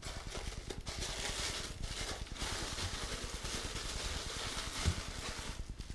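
Rustling and scraping of box packaging as the last tray is handled and lifted out, with a short knock about five seconds in.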